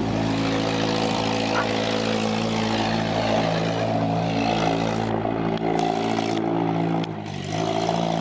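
Demolition-derby car's engine running steadily, its revs dipping briefly about seven seconds in and then picking up again.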